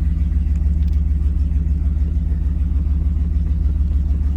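A truck's V8 engine running steadily with an even low rumble, which the driver takes for a 360 Magnum.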